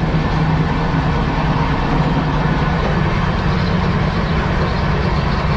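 Steady running noise of an Indian Railways AC 3-tier economy coach in motion, a constant low rumble and hum with no single knocks or events standing out, heard inside the coach's toilet.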